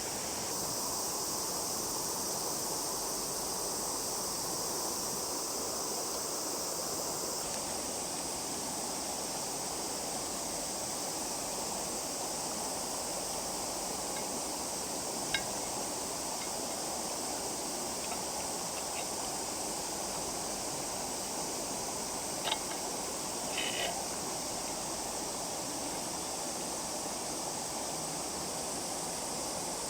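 Steady rushing of a flowing river, with a few faint clicks about halfway through.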